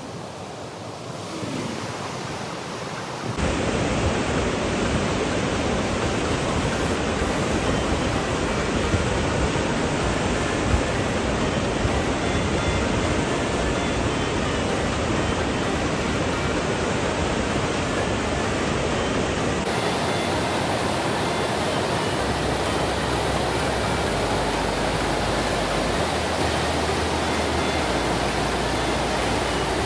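Waterfall rushing: a steady, loud wash of falling water that comes in sharply a few seconds in and holds without a break.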